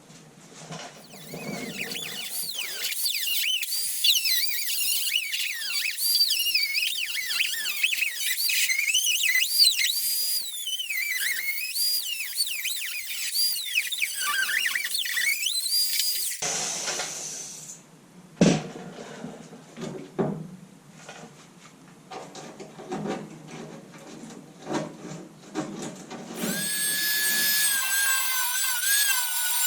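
Power tool cutting through rusted sheet-metal body panel: a loud, high screech that wavers in pitch for about fifteen seconds. It is followed by a sharp knock and scattered clatter, then a steadier high whine near the end.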